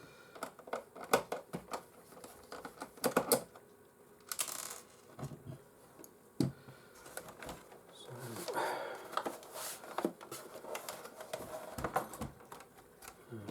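Scattered clicks, taps and plastic clatter of a PlayStation 4's casing and screws being handled as the console is taken apart, with a brief scraping rustle about four and a half seconds in.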